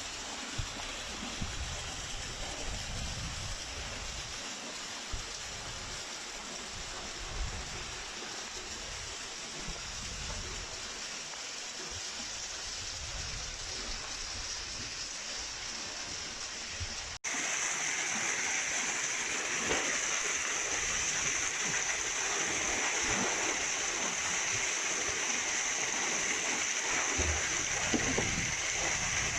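Stream water rushing steadily. About two-thirds of the way through there is a sudden cut, after which the rushing is louder and hissier.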